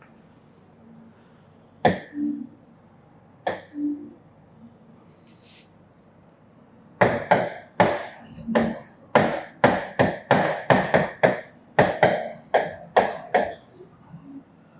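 Writing on a classroom board: a few separate taps, then about seven seconds in a quick run of sharp taps and strokes, roughly three a second.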